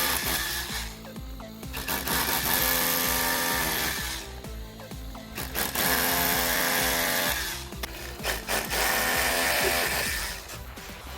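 A power tool runs in three bursts of a couple of seconds each, over background music.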